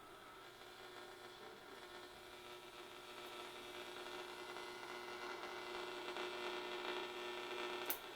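Sound Sales DX Plus Three AM valve tuner's output through small computer speakers: steady hum and static hiss laced with faint whistling tones, the noise of poor AM reception, slowly growing louder. A sharp click near the end, after which it drops back.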